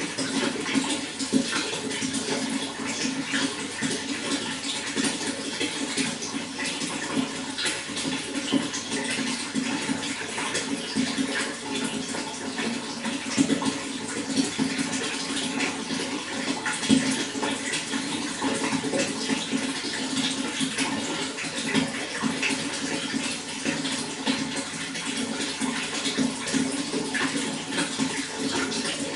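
Running water splashing and gurgling steadily, with a stronger low band and constant fine spattering.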